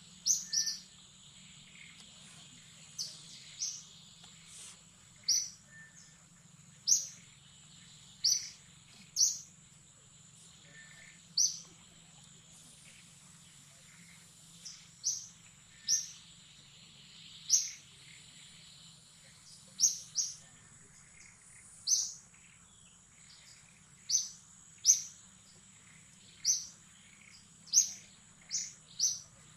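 A bird calling over and over, one short, sharp, high chirp every second or two, over a steady high-pitched insect drone.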